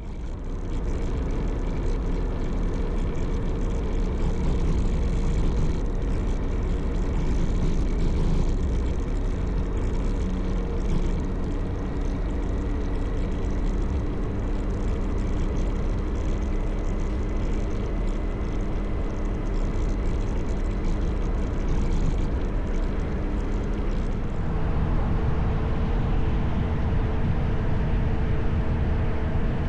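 Motorcycle running at steady road speed, its engine hum mixed with wind and road noise. The engine note shifts about three-quarters of the way through.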